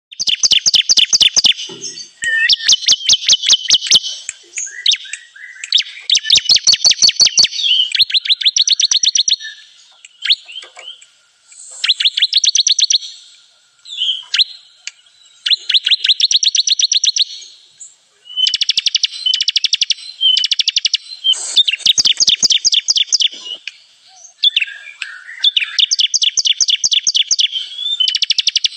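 Bar-winged prinia (ciblek kristal) song: fast, high-pitched trills of rapidly repeated notes in bursts of a second or two, one after another with short pauses between them.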